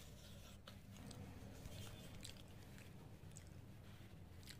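Faint chewing of rice and fried potatoes (aloo bhaja), with scattered small mouth clicks over a low background hum.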